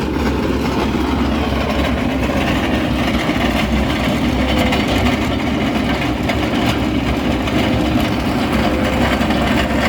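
Diesel engine of a Cat 272D skid steer running steadily with its PL305B asphalt grinder (cold planer) attachment working, a continuous heavy rumble with a faint irregular clatter.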